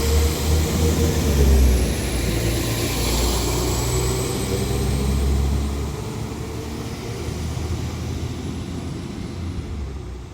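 Diesel multiple-unit train engine running with a high whine, the tones dropping in pitch about a second and a half in, then fading steadily as the train draws away.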